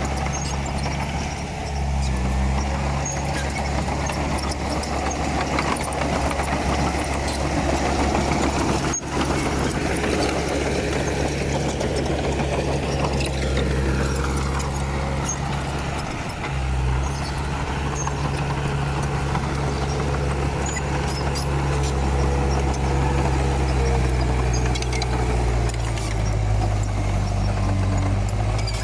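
Komatsu D31P bulldozer's diesel engine running steadily under work, its pitch stepping up or down a few times, with faint scattered clicks on top.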